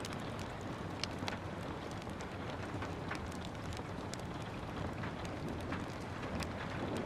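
Steady rain hiss mixed with a crackling wood fire, sharp pops and snaps scattered irregularly throughout.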